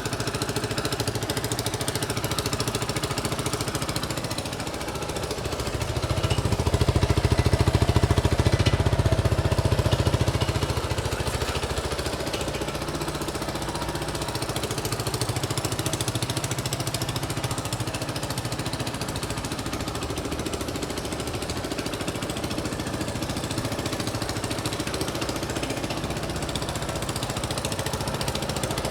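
Honda Strada 200cc single-cylinder four-stroke motorcycle engine running, its noise coming from exhaust and engine-mount bolts not yet tightened. It picks up and runs louder from about six seconds in, then drops back to a steady idle about ten seconds in.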